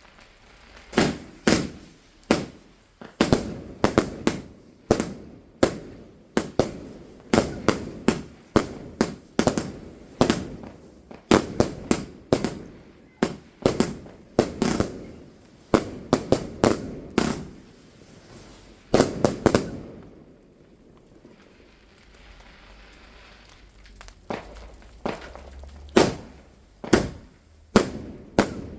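Fireworks going off in a rapid string of sharp bangs, a few a second, for about twenty seconds. After a pause of a few seconds, single bangs follow about a second apart near the end.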